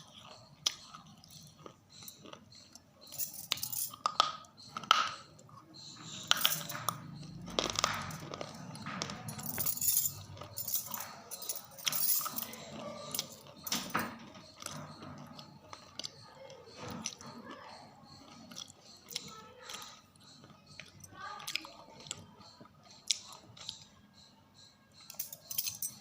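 Close-miked crunchy biting and chewing: irregular sharp crunches and crackles as something brittle is bitten and ground between the teeth, busiest in the first half.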